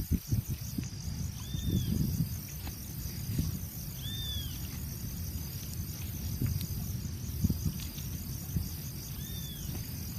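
A bird repeating a short rising-and-falling whistled note about three times, a few seconds apart, over steady rapid insect chirring and an uneven low background rumble.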